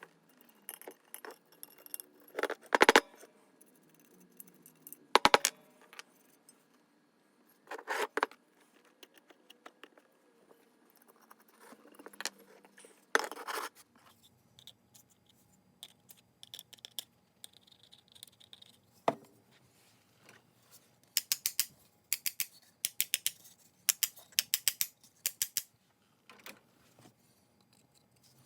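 Metal parts of a Stanley Bailey No. 5 jack plane clinking, knocking and scraping as it is taken apart and its parts are set down. Separate sharp knocks come every few seconds, then a run of quick small clicks near the end.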